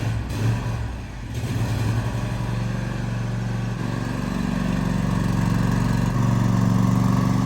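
Motorcycle engine running steadily at low revs, gradually getting louder.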